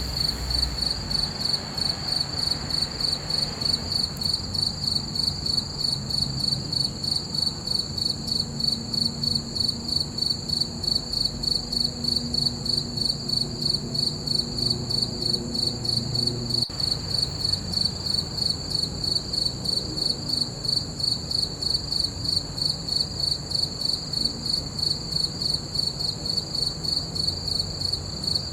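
Crickets chirping in a steady, even rhythm at one high pitch.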